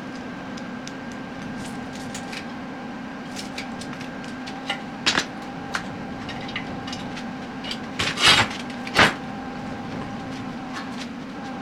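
Steel welding-cart parts being handled and fitted together during assembly: scattered light clicks and taps, with louder metal clanks about five seconds in and twice around eight to nine seconds in, over a steady hum.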